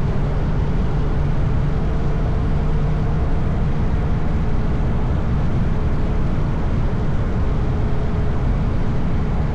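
Motorcycle riding at steady road speed: loud, even wind and road rush, with the engine's steady hum underneath.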